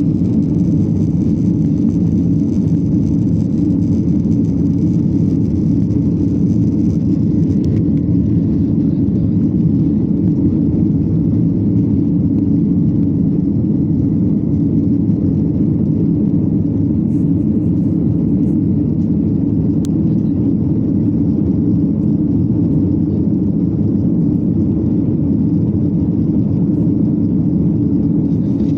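Steady low rumble of a Boeing 737-800 in flight, its CFM56-7B jet engines and airflow heard from inside the cabin. A faint high whine stops about eight seconds in.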